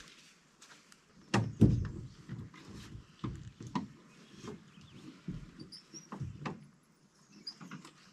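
A series of irregular thuds and knocks, about one or two a second, the loudest about a second and a half in, with a few faint bird chirps near the end.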